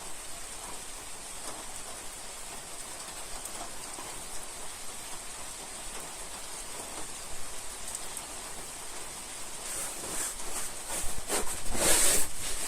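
Steady rain falling and pattering on surfaces. Near the end there is a louder noise lasting about a second, with scattered clicks around it.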